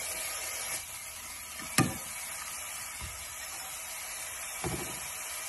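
Sliced mushrooms, onion and red pepper sizzling steadily as they fry in oil in a saucepan while being stirred with a plastic spatula. There is one sharp tap about two seconds in and a few soft knocks near the end.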